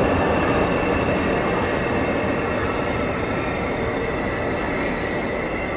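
A train running on the rails: a steady noise of the moving train, slowly fading, with faint thin high tones above it.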